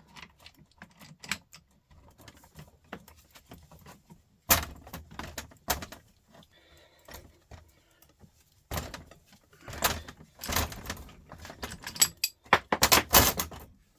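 Metal parts of a truck starter motor clinking and clattering as they are handled and pulled apart, in scattered bursts with the loudest clatter near the end.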